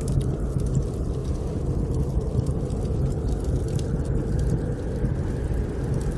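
Snowstorm wind blowing in a steady low rush, with a wood fire crackling in small, faint pops over it.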